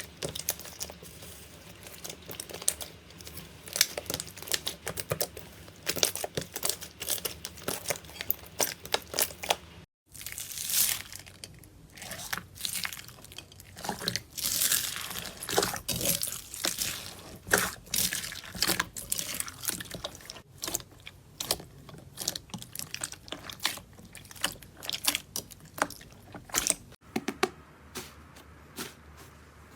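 Slime being squeezed, pressed and poked by hand, giving a dense run of crackling, crunching and squishing pops. The sound cuts out briefly about ten seconds in and changes character near the end as one clip gives way to the next.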